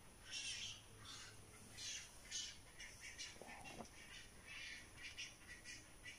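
Birds calling in the trees: a faint run of short, scratchy chirps, with one lower squawk about three and a half seconds in.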